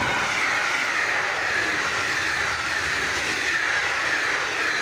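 Locomotive-hauled passenger train passing close by: a steady, loud rolling noise of steel wheels on the rails as the coaches go past, starting to fade at the very end.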